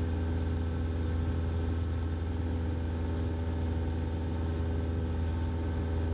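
Cessna 172 piston engine and propeller droning steadily in cruise, heard inside the cockpit.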